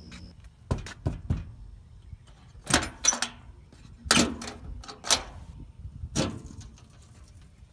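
A series of irregular knocks and clunks, about eight in all, some sharper and louder than others.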